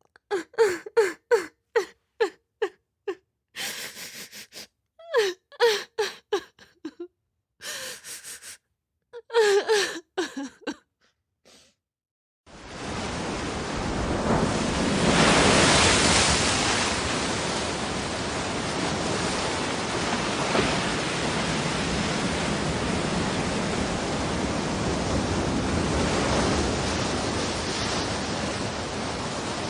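A person crying in sobbing, broken cries with sharp gasping breaths. It stops about eleven seconds in, and after a short gap a steady rushing noise, like static or falling water, fills the rest.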